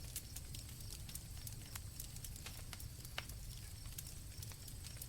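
Campfire crackling with irregular sharp pops over a low rumble, one louder pop about three seconds in, with crickets chirping steadily in the background.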